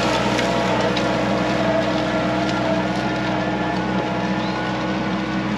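TYM 4815 compact tractor's diesel engine running steadily, with a few faint ticks and rattles over it.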